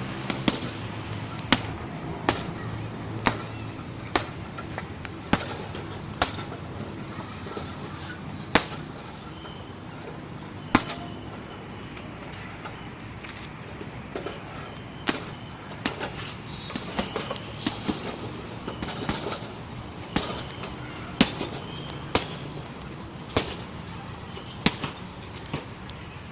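Strikes landing on a heavy punching bag: sharp thuds about once a second, irregular, with a gap in the middle and closer-spaced hits in the second half.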